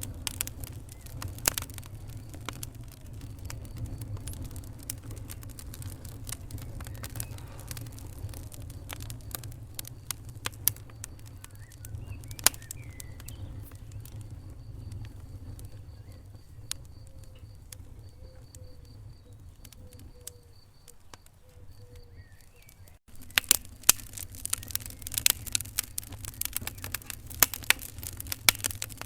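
Wood fire in a fireplace crackling and popping over a low rumble of flames. The pops thin out through the middle. About three quarters of the way in there is an abrupt break, after which the crackling is denser and louder.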